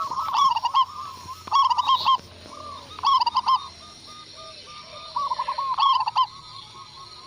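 Zebra doves (perkutut) cooing: four loud bursts of quick, staccato, arched coo notes, with a fainter, lower-pitched dove cooing in the gaps between them.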